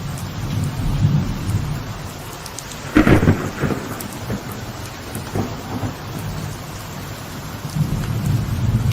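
Light rain falling steadily on a veranda, with thunder rumbling low. About three seconds in comes a sudden loud crack of thunder, followed by a few smaller crackles over the next few seconds before the rumble returns near the end.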